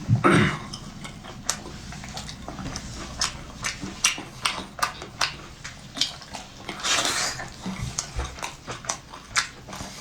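Close-up eating sounds: a run of short, sharp chewing and crunching clicks, with dish and cutlery clinks and a breathy rush of noise about seven seconds in.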